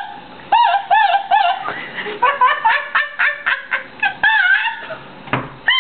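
A woman's high, squeaky laugh that sounds like an exotic bird call: a run of rising-and-falling squeals, about two a second at first, quickening in the middle.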